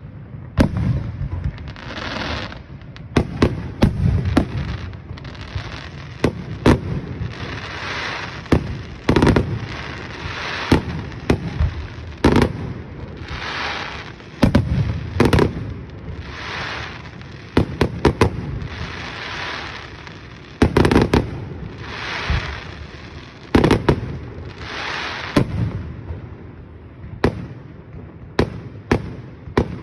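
Aerial fireworks display: a steady run of shell bursts, many booms and sharp bangs, some in quick clusters, with crackling hiss after several of the bursts.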